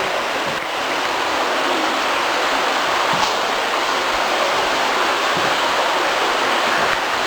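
Waterfall near a cave opening: a steady rush of falling water.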